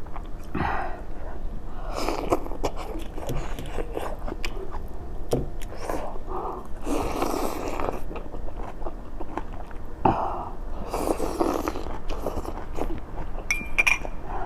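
Close-miked chewing and biting: wet mouth clicks and smacks of a person eating hot noodles and vegetables, with louder noisy bursts about seven and eleven seconds in.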